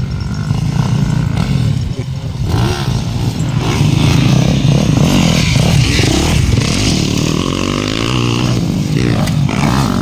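Motocross dirt bike engines running and revving, their pitch rising and falling, growing louder a few seconds in.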